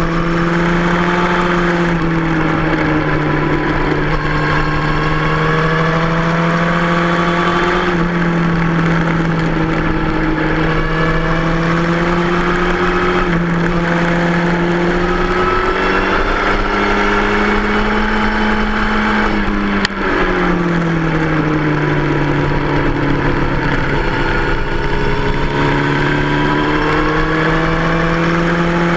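2003 Yamaha R1's inline-four engine running hard at track speed, heard on board, its pitch rising and falling over a few seconds at a time. About twenty seconds in, a sharp click and a brief dip, then the pitch drops and climbs again.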